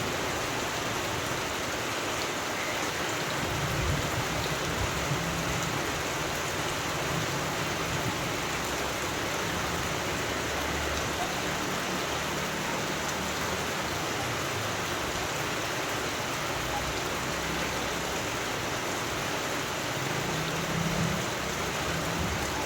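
Steady rain falling, an even hiss throughout, with a low rumble about four seconds in and again near the end.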